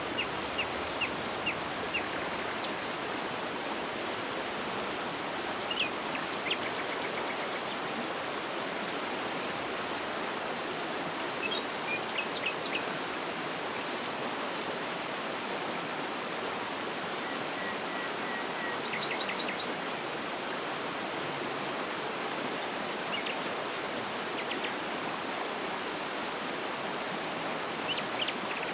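Steady rush of a waterfall, with short bird chirps and trills over it at intervals.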